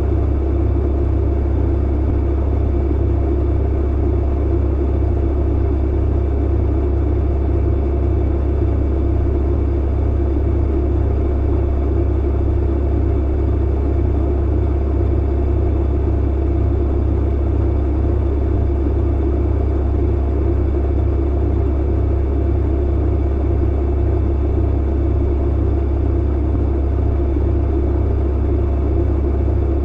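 Tumble clothes dryer running: a steady deep hum and rumble that does not change.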